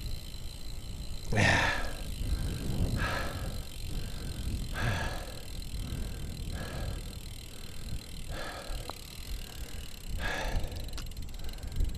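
A cyclist breathing hard after a long climb, one heavy breath about every two seconds, over steady wind and road noise on the microphone.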